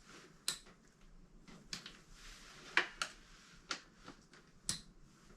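Hand tools being handled during motorcycle oil-change work: about six separate sharp clicks and taps at irregular intervals.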